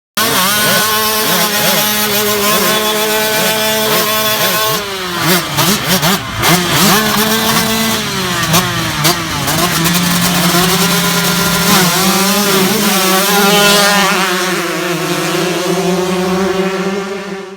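2018 Yamaha YZ125 single-cylinder two-stroke dirt bike engine being ridden hard, its pitch rising and falling with throttle and gear changes. Several revving passes overlap and cut in and out.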